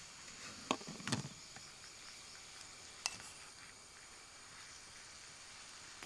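Faint steady outdoor hiss with a few sharp clicks or cracks, two close together about a second in and one about three seconds in.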